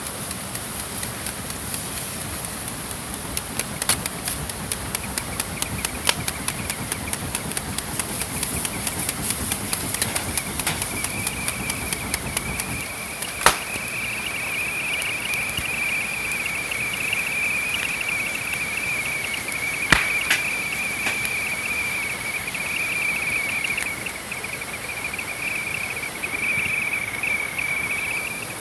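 Campfire crackling and popping. About ten seconds in, a kettle sitting on the fire starts to whistle: a steady, slightly wavering high whistle that keeps going, with a few sharper pops from the fire over it.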